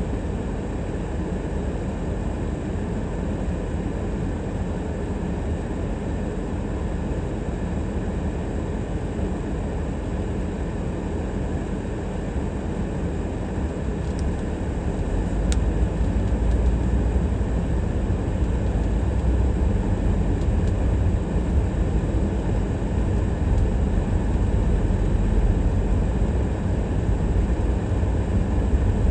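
Steady low rumble of a car's engine and tyres while driving, growing louder about halfway through.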